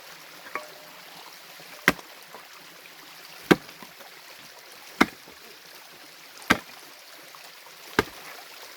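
Pickaxe striking stream bedrock five times at an even pace, about one blow every second and a half, with the stream rushing underneath.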